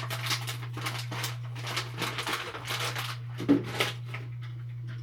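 Crinkling and rustling from handling a bag of coffee beans and a storage container, with a sharp knock about three and a half seconds in. A steady low hum runs underneath.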